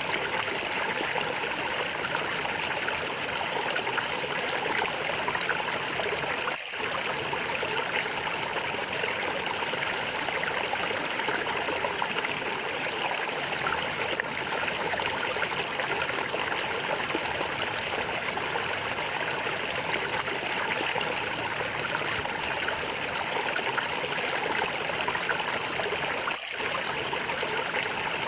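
Small stream gurgling and trickling steadily, with two very brief dips in level, one about a quarter of the way in and one near the end.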